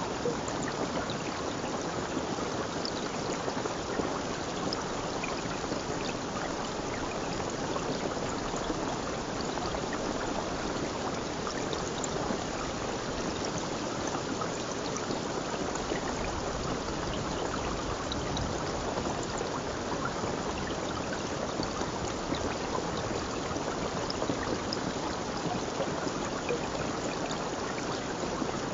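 Running water, like a stream, flowing with a steady rushing sound that doesn't change.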